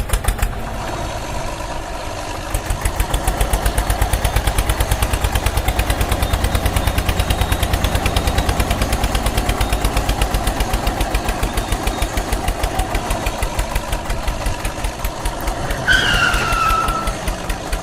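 Tractor engine running with an even, rapid beat, a little louder from about two seconds in. A short falling tone sounds near the end.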